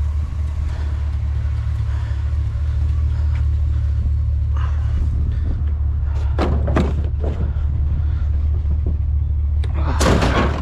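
Rummaging through trash in a dumpster: short bursts of rustling and clattering about six seconds in and a louder burst near the end, over a steady low rumble.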